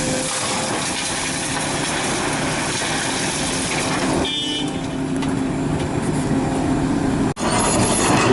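Heavy excavator's diesel engine running steadily under load. About four seconds in there is a brief high-pitched toot, and the sound cuts out for an instant near the end.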